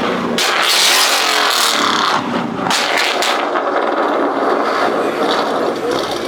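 A car's exhaust revving hard in several loud surges over the first three seconds or so, then dropping to quieter, steadier engine noise.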